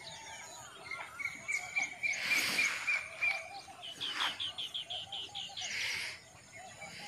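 Birds calling: a run of quick high notes held on one pitch, then a rapid series of about ten short falling chirps. Two brief bursts of rustling noise come in between.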